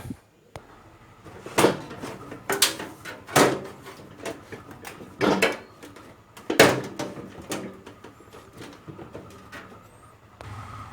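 Hands and tools handling the metal parts of a microwave oven as it is taken apart: a handful of separate knocks and clunks, a second or two apart.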